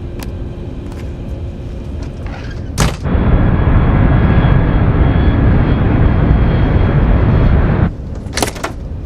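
Airliner in flight: a steady low cabin hum, then a much louder, dense rumble of jet engines and rushing air that comes in suddenly about three seconds in and cuts off just before the end, with a faint steady whine riding on it.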